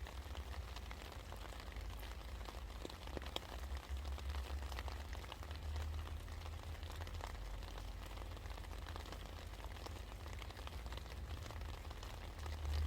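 Steady rain falling, with many individual drops ticking and pattering against a hard surface, over a steady low rumble.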